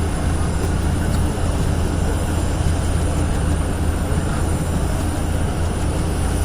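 A steady, loud mechanical drone of engine noise: a constant low hum with a hiss above it that does not rise or fall.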